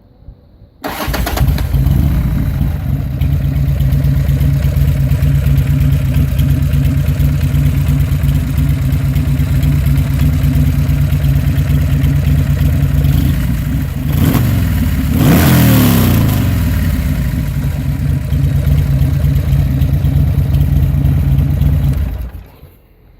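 Buell X1 motorcycle's V-twin idling steadily, with one rev that rises and falls about two-thirds of the way through. The engine comes in suddenly about a second in and cuts off near the end.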